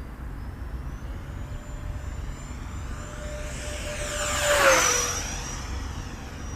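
FMS Yak-130 RC jet's 70mm electric ducted fan whining through a low fly-by: the whine builds to its loudest about two-thirds of the way in, then its pitch drops as it passes and moves away.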